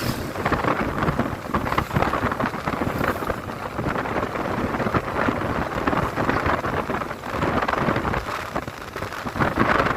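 Wind buffeting the microphone of a moving motorcycle, a loud rushing noise that rises and falls, with the motorcycle's engine and road noise running beneath it.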